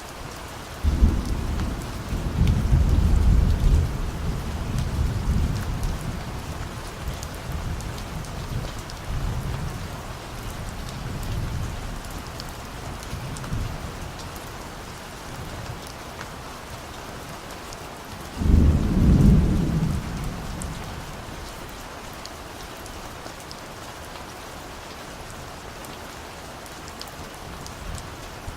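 Steady rain falling, with distant thunder: a long low rumble starts about a second in and slowly dies away, and a second, shorter peal comes about two-thirds of the way through.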